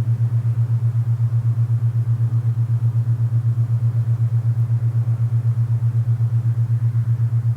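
Alpha binaural-beat tone: a loud, low, steady hum that pulses evenly about ten times a second, over a faint hiss of wind.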